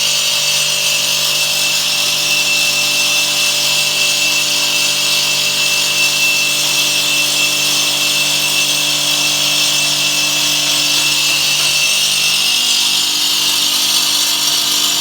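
Automatic stone-cutting machine running its blade through stone under automatic feed: a loud, steady grinding hiss with a high whine over the electric motor's hum.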